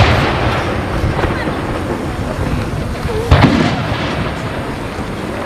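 Aerial firework shells bursting: a loud bang about three seconds in, each boom followed by a long rumbling echo that slowly fades, over the tail of another burst at the start.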